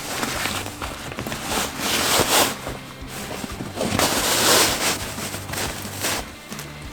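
Heavy fabric seat cover rustling and swishing as it is pushed and worked down over the rear seat back, in several long strokes, over faint background music.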